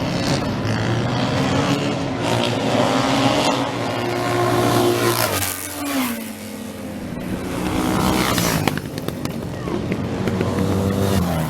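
Racing motorcycle engines at high revs passing by. The pitch drops sharply as one goes past about five and a half seconds in, then climbs again as more bikes come through.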